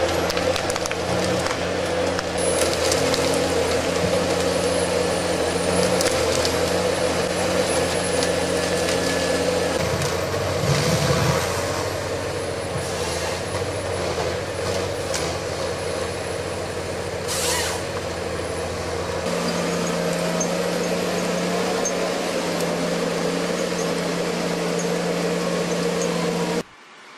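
Heavy excavator's diesel engine and hydraulics running steadily under load, with a thin high whine above the engine drone. The sound stops abruptly near the end.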